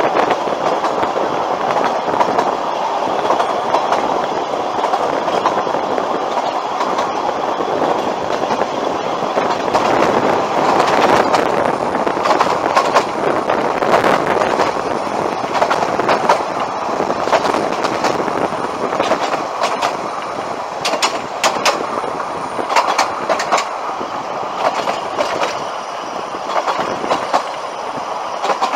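Narrow-gauge heritage train running along the track, a steady rumble and rattle of the carriage with wheel clicks over rail joints, a cluster of sharp clicks about two-thirds of the way through.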